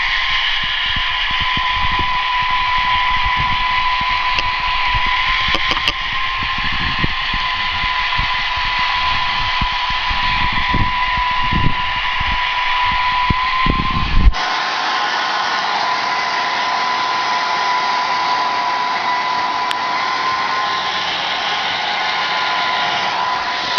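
Hair dryer running steadily with a high motor whine and rushing air. A low, gusty rumble under it stops abruptly a little past halfway, while the whine carries on.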